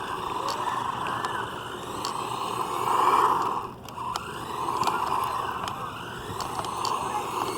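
Hosim S911 electric RC truck being driven: its motor and drivetrain whine, swelling and easing with the throttle and dropping away briefly just before four seconds in.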